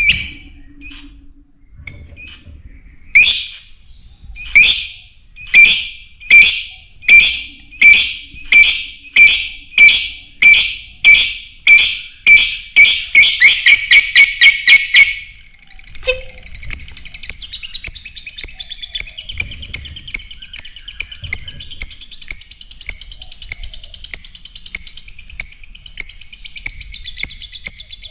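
Lovebird calling: a series of loud, sharp chirps about one to two a second, coming faster and faster. About halfway through they give way to quicker, quieter continuous chirping.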